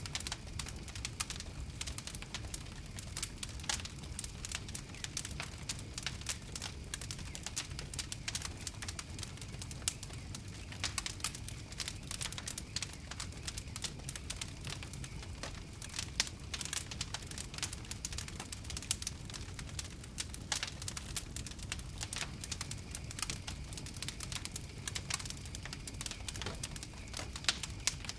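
Wood fire crackling steadily, with frequent sharp irregular pops and snaps over a low rumble of the flames.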